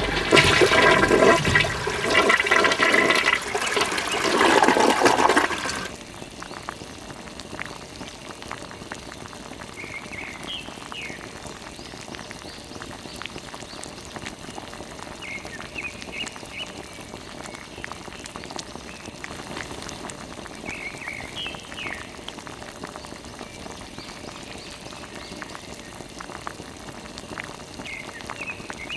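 Water splashing and running from a small DIY mini water pump, with a louder stretch over the first six seconds that carries a whining tone; after that a steady, quieter trickle with faint short chirps every few seconds.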